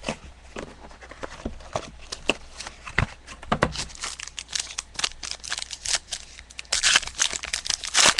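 Plastic wrapping crinkling and tearing in quick crackles as a trading-card box is opened and handled. There are a couple of dull knocks about three seconds in, and the crackling is densest near the end.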